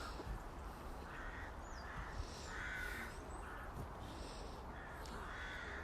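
A string of short, harsh bird calls, about one a second, over a steady low outdoor background.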